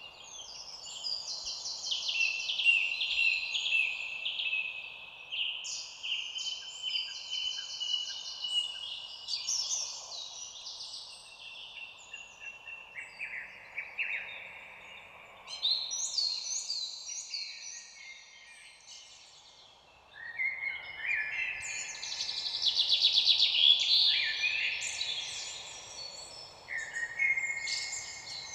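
Birds singing, one rapid trilled phrase after another, over a faint steady background hiss. The song dips briefly about two-thirds of the way through, then comes back louder.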